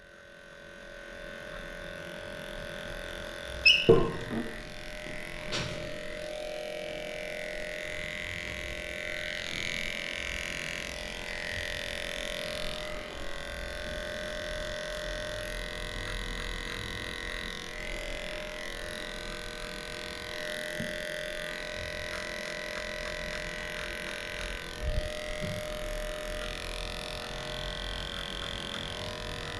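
Electric dog clippers running with a steady hum while shaving off matted fur. A couple of sharp knocks cut in, the loudest about four seconds in.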